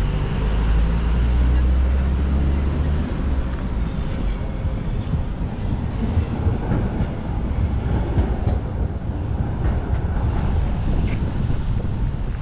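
Street noise of city traffic, with a heavy vehicle rumbling past for the first three seconds or so. After that it settles into an even hum with a few scattered clicks.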